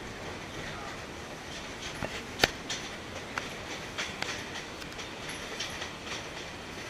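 Railway passenger carriage running along jungle track: a steady running noise with irregular clicks and knocks from the wheels and the rattling carriage, one sharp knock about two and a half seconds in standing out above the rest.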